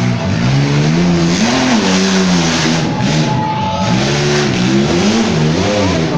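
Off-road competition truck engine revving up and down repeatedly as the truck works over an obstacle course, its pitch rising and falling every second or so.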